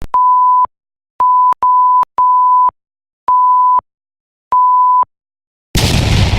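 Six electronic beeps on one steady pitch, of uneven length and spacing, followed near the end by a sudden loud boom.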